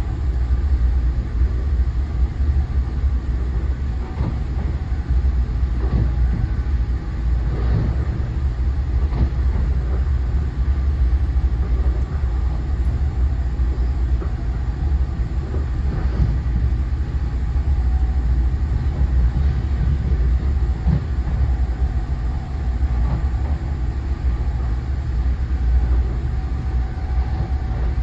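Steady low rumble inside a moving NJ Transit Multilevel passenger coach: wheels running on the rails, with occasional short clicks and knocks from the running gear.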